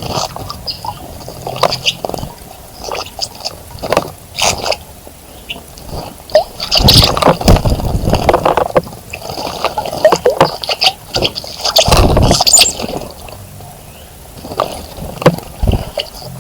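Water splashing in a bird bath as a bird bathes, in irregular bursts with sharp flicks of water between them, loudest about seven seconds in and again about twelve seconds in.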